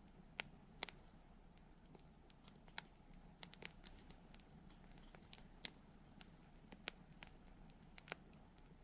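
Wood campfire crackling: irregular sharp pops and snaps, about a dozen, the loudest about three seconds in, over a faint steady low hiss.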